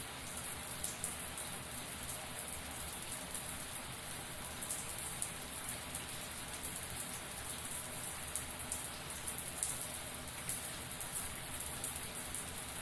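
Shower water running steadily, spray and drops hitting a surface in a continuous patter.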